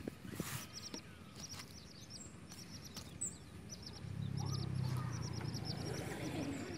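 Small birds chirping in quick repeated high notes. A low steady hum comes in about four seconds in.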